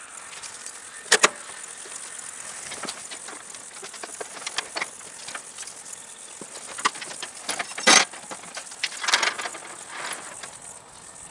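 Scattered knocks and clanks from loading a riding lawnmower onto a trailer. The loudest comes about eight seconds in. Under them is a steady faint chirring of insects.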